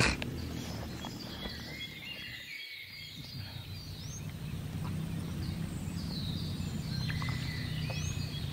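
Small birds chirping repeatedly, short high falling calls, over a steady low outdoor rumble. A sharp click at the very start, and the sound briefly dips about a third of the way in.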